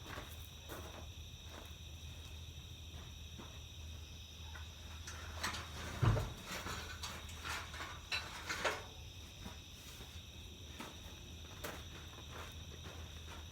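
Scattered footsteps and small knocks, with one heavier low thump about six seconds in, over a steady low hum and a steady high drone.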